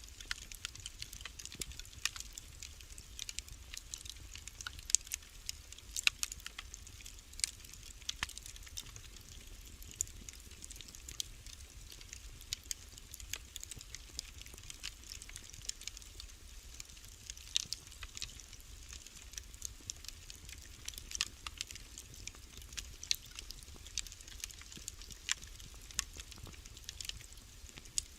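Wood fire crackling: irregular sharp pops and snaps over a soft hiss, with a low rumble underneath.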